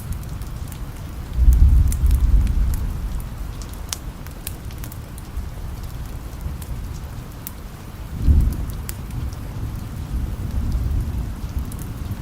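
Steady rain hiss with scattered sharp ticks. Low rolls of distant thunder swell about a second and a half in and again about eight seconds in, each fading over a few seconds.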